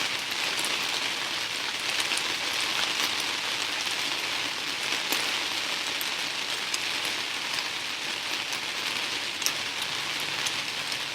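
Steady rain falling: a constant hiss with scattered sharp ticks of individual drops.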